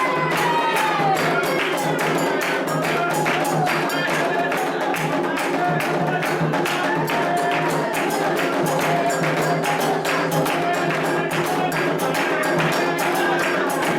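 Candomblé ritual music: atabaque drums and a metal bell played in a fast, steady rhythm, with voices chanting a melody over it.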